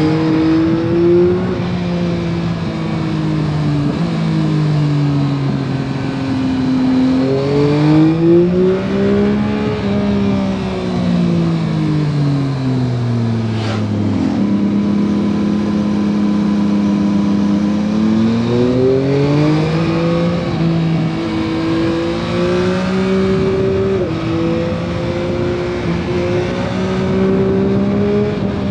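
2021 Yamaha MT-09 SP's 890 cc inline three-cylinder engine on its stock exhaust, ridden on the road: the engine note climbs and drops with the throttle. It rises about eight seconds in, falls away for a few seconds, then pulls up again and holds fairly steady near the end.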